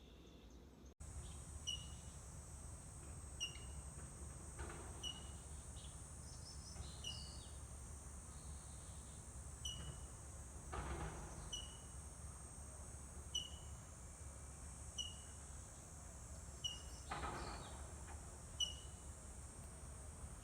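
A bird repeating a short, slightly falling chirp about every second and a half, over a steady high-pitched buzz, with three brief whooshes of rustling or wind.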